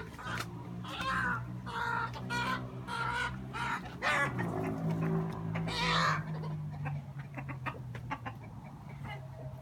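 Chickens clucking, a run of short calls with one louder call about six seconds in, as the birds are chased around the yard.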